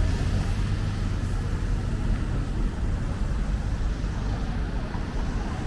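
Steady rumble of city street traffic, with cars and buses passing.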